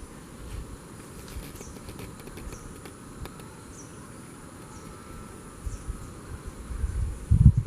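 Insects droning with a steady high buzz, with short high chirps about once a second, over a low rumble that grows louder near the end.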